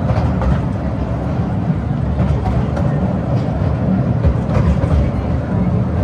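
Atal Express toy train running along its track: a steady low rumble with occasional faint clicks.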